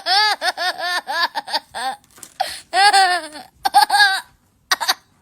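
A person laughing in a rapid run of high-pitched 'ha' sounds, then a few longer drawn-out laughs that stop near the end.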